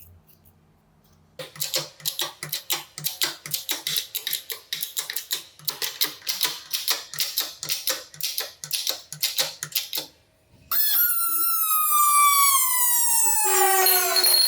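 A fast run of sharp clicks or taps, about four a second, for some eight seconds. Then a loud whine that falls steadily in pitch, like a small electric motor spinning down.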